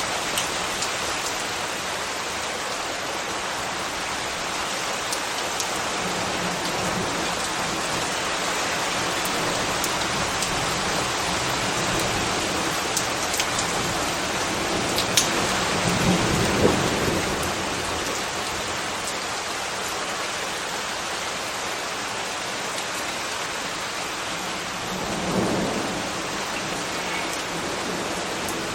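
Steady rain falling with scattered sharp drip ticks. Two low swells rise and fade, one about halfway through and one near the end.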